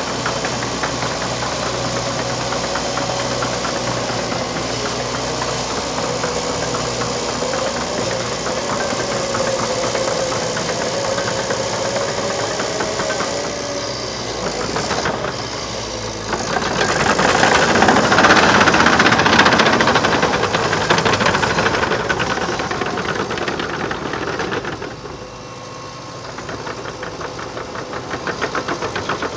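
Liebherr PR 726 crawler dozer's diesel engine running under load with a steady drive whine, swelling louder for a few seconds past the middle, then dropping briefly before picking up again near the end.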